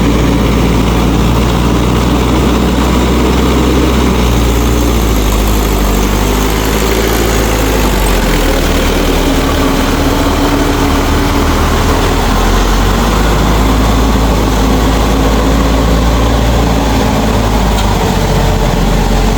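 Mahindra 4WD tractor's diesel engine running steadily and loudly, its pitch shifting a little about a third of the way in.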